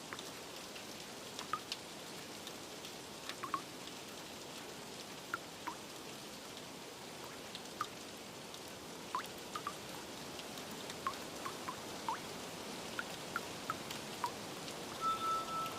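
Steady rain with scattered water drips plinking irregularly. Near the end, soft sustained melodic tones from the ambient music begin.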